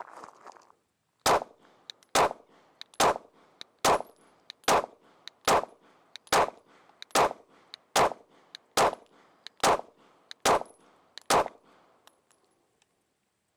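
A 9mm Polymer80 Glock-pattern pistol with a G19 drop-in replacement barrel fires a steady string of thirteen shots, about one a second. This is a functions test, and the gun cycles each round without a stoppage.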